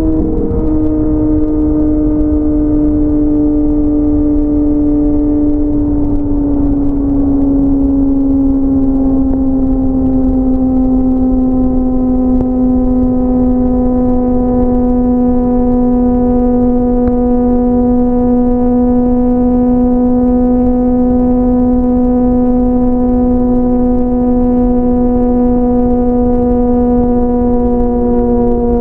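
Inline-four sport motorcycle engine droning steadily at freeway cruising speed, its pitch easing slightly lower over the first ten seconds and then holding, with low wind rumble underneath.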